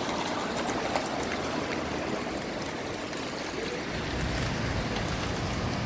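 Steady wash of storm wind and rain from a typhoon, with low rumbling wind buffets on the microphone growing from about four seconds in.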